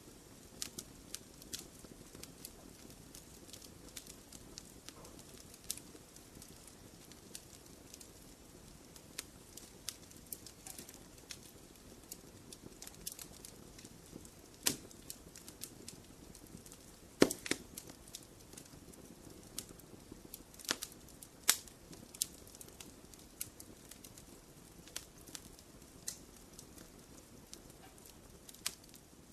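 Wood fire crackling in a fireplace: a soft low rush of flames under frequent irregular pops and snaps, a few of them louder, the sharpest one a little past halfway.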